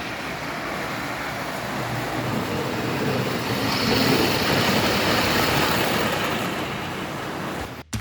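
American Flyer PA 'Rocket' diesel model locomotive running fast on its track, its two motors freshly cleaned and lubricated after being seized. A steady running noise that grows louder partway through, eases off, and cuts off suddenly near the end.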